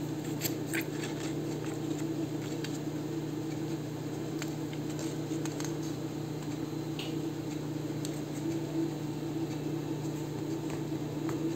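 A steady low hum runs throughout, with faint scattered ticks and soft rustles of paper being handled and its edges rubbed with an ink pad or blending tool.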